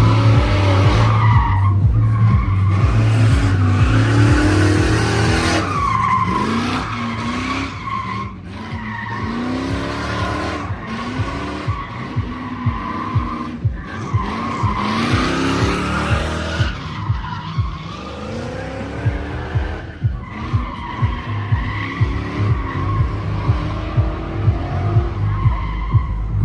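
Drift cars sliding with their tires squealing, engines revving up and down again and again through the slides.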